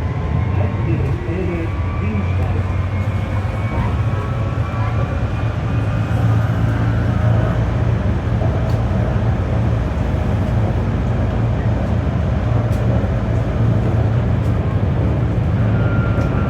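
Berlin GT low-floor tram running along the line, heard from inside: a steady low hum and wheel-on-rail rumble, with a faint electric motor whine that shifts in pitch. It grows slightly louder about six seconds in.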